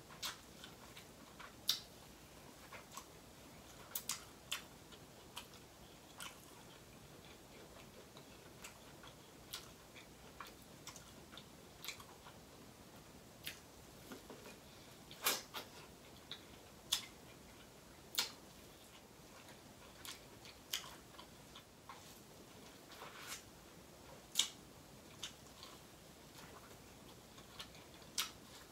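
Corn on the cob being bitten and chewed: irregular sharp clicks and pops, about one a second, with a few louder ones.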